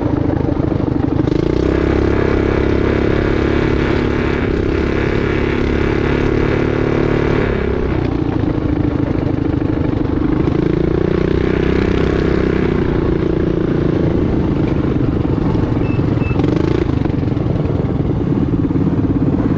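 Mini bike's small engine running hard under throttle, its pitch rising and falling as the rider eases off and gets back on the gas, with a dip about eight seconds in.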